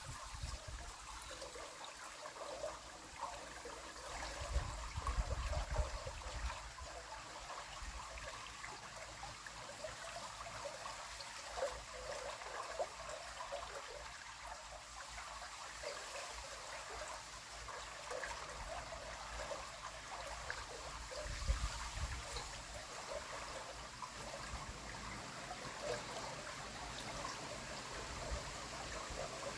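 River water running in a steady, trickling wash. A low rumble comes in about five seconds in and again at about twenty-two seconds.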